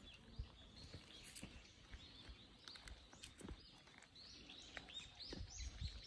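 Faint birdsong: small birds giving short chirps that sweep up and down in pitch, more of them near the end, over quiet outdoor background noise.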